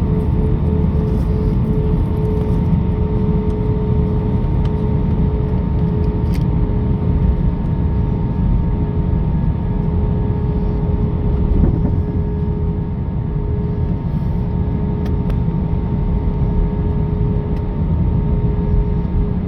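Airbus A319 jet engines running steadily: a loud, even low rumble with steady whining tones over it.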